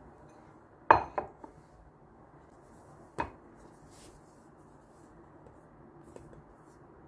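Hard kitchenware clinking: three quick ringing knocks about a second in, then a single one a little after three seconds, over faint steady room hiss.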